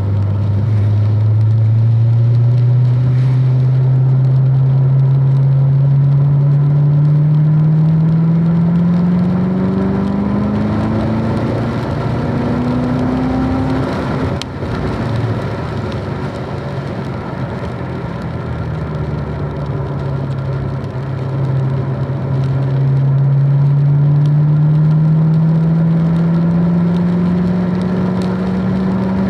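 Car engine pulling hard, its note rising steadily for about thirteen seconds. About halfway through it falls away, holds low for several seconds, then climbs again near the end.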